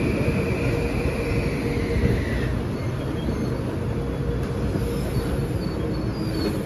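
Metro-North M8 electric multiple unit moving along the station platform: a steady rumble of wheels on rail, with a high whine that fades out about two seconds in.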